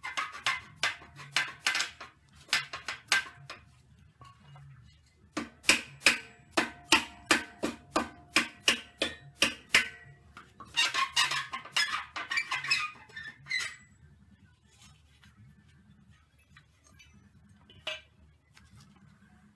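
Mallet blows through a block of wood driving the baffle out of a Harley-Davidson XG 750 Street muffler, its welds already cut. The muffler rings at each strike. The blows come in three quick runs of about two or three a second, stop after about fourteen seconds, and are followed by one lone knock.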